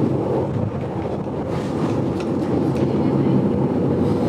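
Vintage GoldenPass Belle Époque railway carriage running along the track, heard from inside: a steady low running noise with a few light clicks from the wheels and rails.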